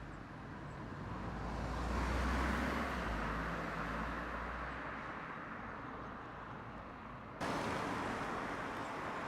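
Road traffic noise: a motor vehicle swells past about two seconds in and fades, and about seven seconds in the background jumps abruptly louder and brighter.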